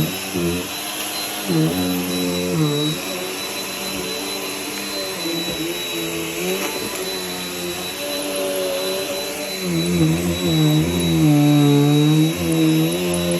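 Vacuum cleaner running, its motor note dipping and rising in pitch several times over a thin steady high whine, louder for a few seconds near the end.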